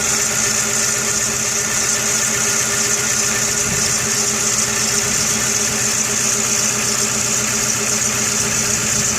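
Volkswagen Jetta 2.0-litre four-cylinder engine idling steadily with an even pulse. The number 4 spark plug wire has just been pushed back on, as a test of whether it cures a misfire.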